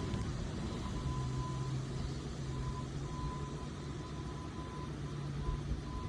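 A truck engine running steadily, with a faint high-pitched beep sounding on and off.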